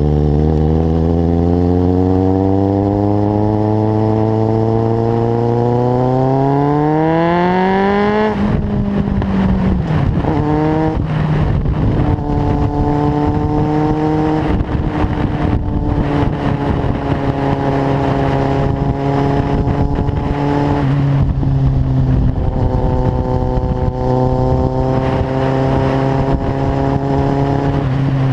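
Kawasaki Z750's inline-four through a carbon LeoVince exhaust while riding: the engine note climbs steadily for about eight seconds under acceleration, drops suddenly, then holds fairly steady at cruising revs for the rest.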